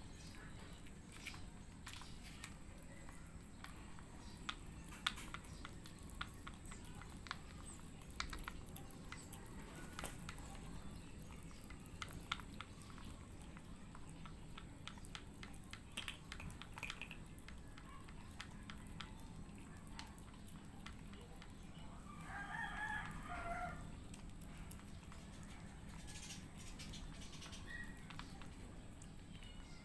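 Cats eating dry kibble mixed with wet food: faint, irregular small crunching clicks. About three-quarters of the way through, a rooster crows once.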